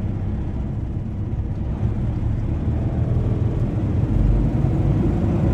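PACCAR MX-13 diesel engine of a heavy truck pulling under way, heard from inside the cab as a steady low drone. The drone deepens and grows a little louder about four seconds in.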